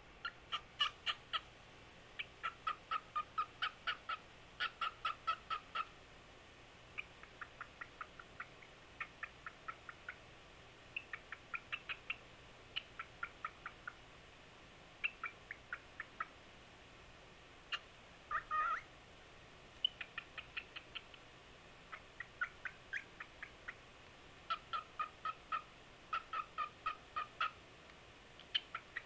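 A cockatiel whistling in quick runs of short, sharp notes, several a second, with brief pauses between the runs. About 18 seconds in it gives one longer, harsher call.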